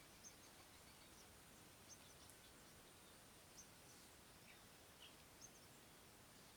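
Near silence: a few faint, short, high bird chirps at irregular intervals over a steady outdoor hiss.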